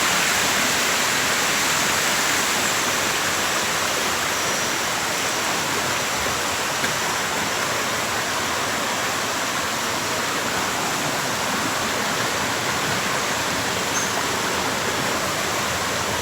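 Small creek's water tumbling over a little waterfall: a steady, even water noise.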